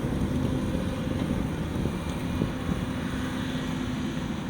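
An engine running steadily: an even low rumble with a held hum and no revving.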